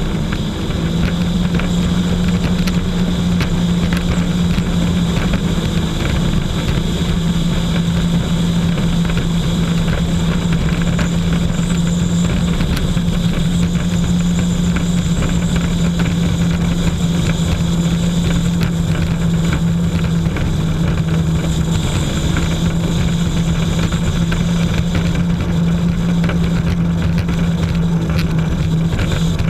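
Jet ski engine running steadily at one constant pitch, over a steady rushing noise.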